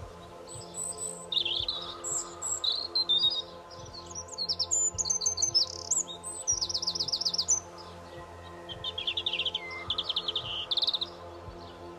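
A songbird singing a long run of quick, varied chirps and trills, pausing briefly about two-thirds of the way through, over soft background music of steady held tones.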